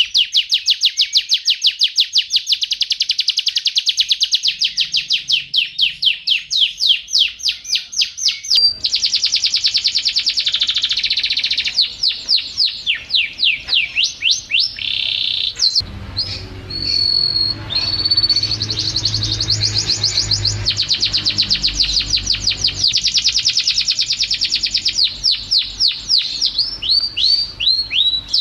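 Domestic canary singing a long song of fast repeated trilled notes, the phrases changing in speed and pitch one after another. A low background rumble runs beneath the song partway through.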